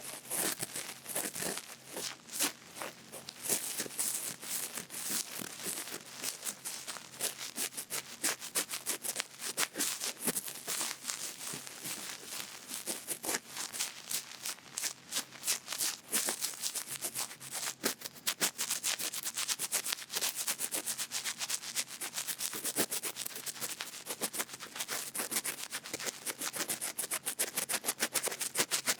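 A cotton bud rubbing and scratching against a microphone's ear in close-up, in quick crackly strokes, several a second.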